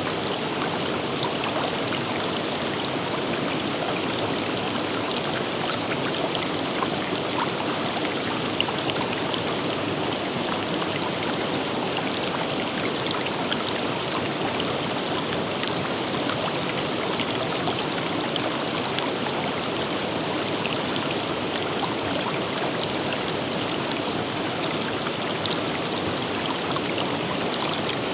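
A river running over rocks: a steady rush of flowing water with small splashes and trickles throughout.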